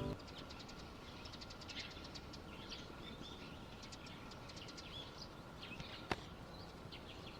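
Faint outdoor background with many small, high bird chirps scattered throughout, and a single sharp click about six seconds in.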